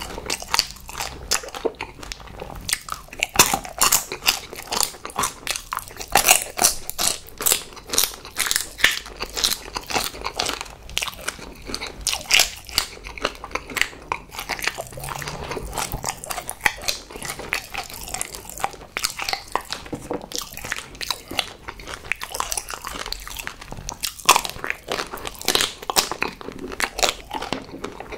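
Close-miked chewing of a mouthful of chocolate sweets: many quick, irregular clicks and smacks of the mouth, several a second.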